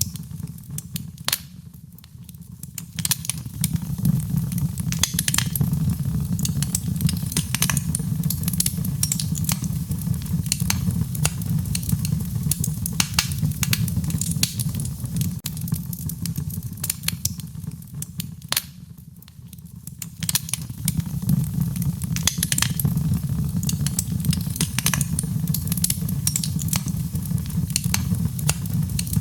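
Wood fire burning in a fireplace: dense, irregular crackling and sharp pops over a steady low rumble of the flames. The crackling briefly thins out and quietens about two seconds in and again about two-thirds of the way through.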